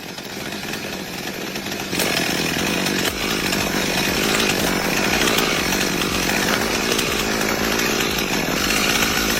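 Chainsaw running steadily, getting louder about two seconds in.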